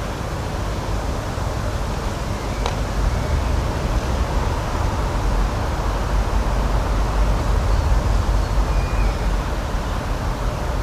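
Steady outdoor rushing noise, heaviest in the deep low end, with a brief click a few seconds in and a short faint chirp near the end.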